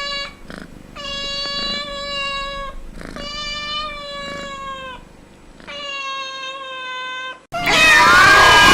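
A cat gives three long, drawn-out meows at a steady pitch, each about two seconds long and dipping slightly at the end. Near the end it cuts abruptly to a much louder jumble of several overlapping, gliding voices.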